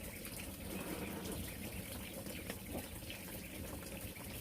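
Running water, a steady rush with faint scattered ticks.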